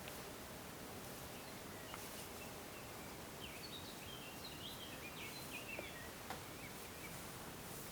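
Steady quiet background hiss with a small bird twittering in short high chirps for a few seconds in the middle, and a few faint clicks.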